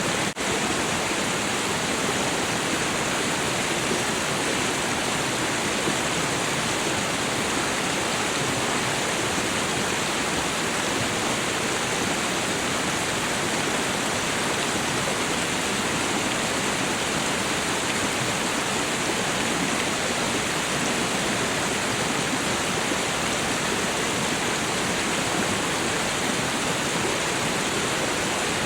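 Waterfall: a steady, even rush of falling water, with one momentary dropout just after the start.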